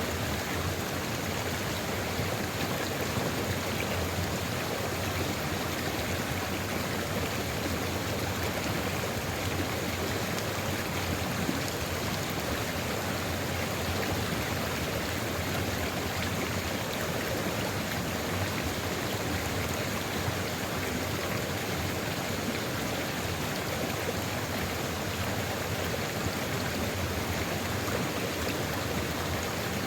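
A stream of flowing water running steadily over rocks, an even rushing sound with no breaks.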